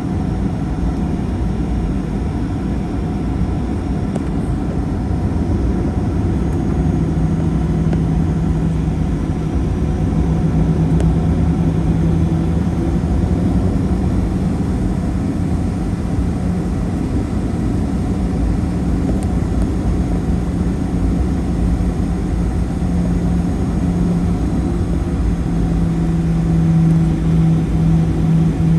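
Cabin noise of a Boeing 737-900 on the ground with its CFM56-7B engines running: a steady low rumble, with a hum that sets in several seconds in and pulses near the end.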